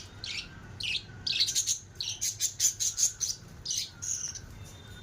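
Small pet parrots chirping and squawking, a quick string of short, sharp high calls with hardly a break between them.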